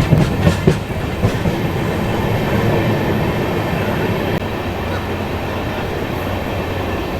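Passenger train running along the track, heard on board: a steady rumble with a few sharp wheel clacks over rail joints in the first second or so.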